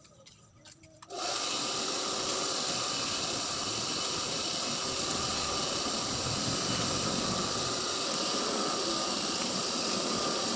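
An electric motor switches on about a second in and runs at a steady, constant whine, like a power tool or blower in a blacksmith's workshop.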